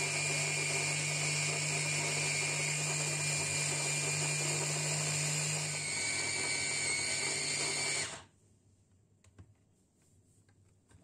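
Small electric appliance motor running steadily at one speed, its pitch shifting slightly about six seconds in, then switched off and spinning down about eight seconds in. A few faint clicks follow.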